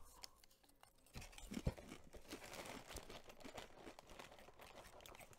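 Faint crunching of a baked Cheez-It cracker being chewed: a scatter of small crackly clicks starting about a second in.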